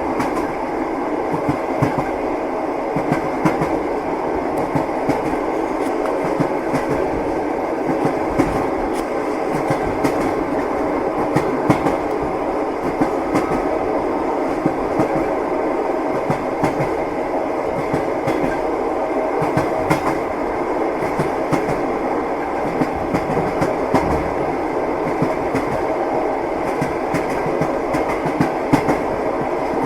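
Train wheels clattering on the rails as the train runs steadily: a constant rumble with frequent clicks.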